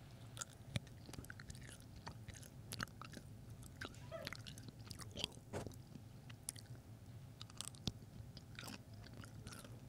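Faint open-mouthed chewing of Twizzlers licorice: soft, irregular wet mouth clicks and smacks, with no crunch.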